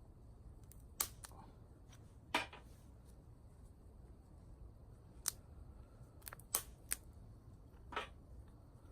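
Small dry twigs snapped by hand, seven short sharp cracks at irregular intervals, some in quick succession.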